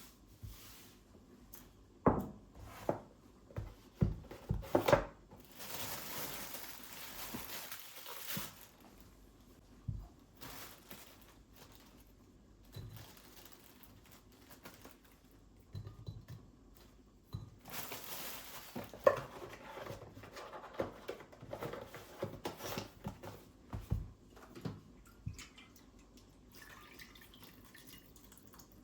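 Kitchen handling sounds: scattered knocks and clinks of dishes and utensils, with a rush of running water for about three seconds near the start and a shorter spell about two-thirds of the way in.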